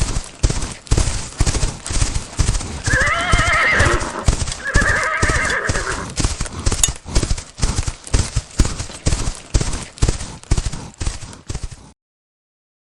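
Horse hooves clip-clopping in a quick, steady rhythm, about three beats a second, with two whinnies a few seconds in. The hoofbeats stop abruptly near the end.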